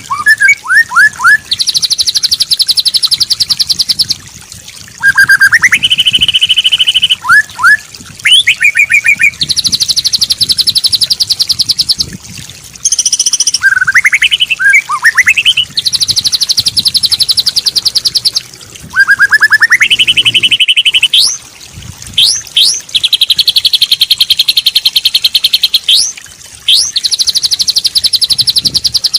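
White-rumped shama song from a masteran training recording: loud, rapid trills of about two seconds each alternate with short runs of quick rising whistles, with brief pauses between phrases.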